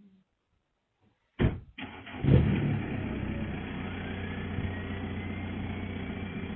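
Near silence, then about a second and a half in an engine sound cuts in suddenly and runs steadily, with a faint whine slowly rising in pitch.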